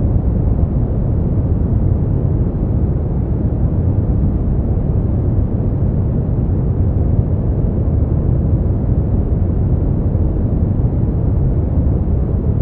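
Steady brown noise: an even, deep rumbling hiss, strongest in the low end and dying away in the highs, unchanging throughout.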